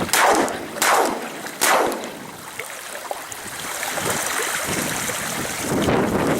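Three shotgun shots in quick succession, each about three-quarters of a second apart, with wind buffeting the microphone throughout.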